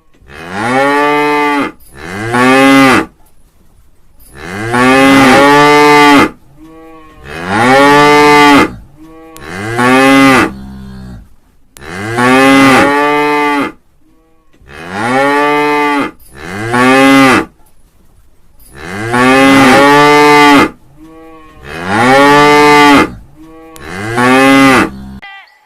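Cow mooing over and over, about eleven moos of one to two seconds each, every one rising then falling in pitch.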